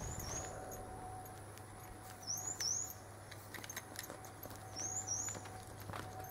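A bird calling: a pair of quick rising chirps, repeated three times about two and a half seconds apart, over a steady low hum with a few faint knocks.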